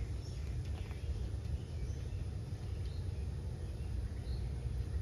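Outdoor ambience: a steady low rumble with small birds chirping briefly here and there.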